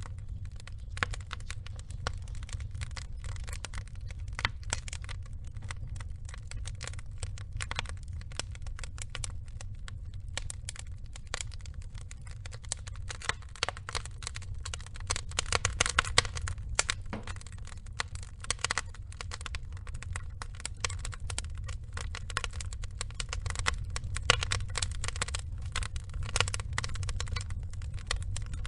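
Wood fire burning: a dense, irregular crackle of small pops over a steady low rumble.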